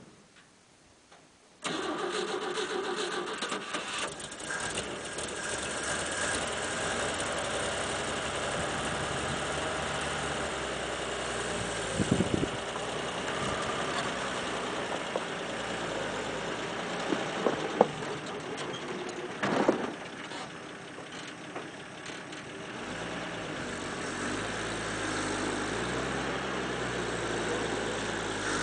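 1946 Chevrolet 1 1/2-ton dump truck's 235 straight-six engine starting about two seconds in, then running steadily, with a few short clunks along the way.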